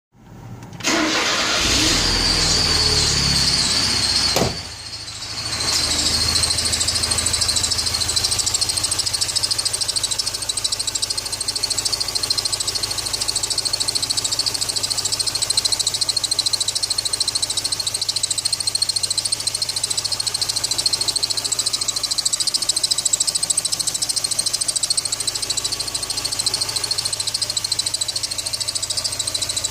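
ZMZ-409 petrol engine starting about a second in, dipping briefly near the five-second mark, then running steadily with a constant high-pitched whistle over it. The whistle appeared after water got into the engine bay, and the owner suspects the drive belt.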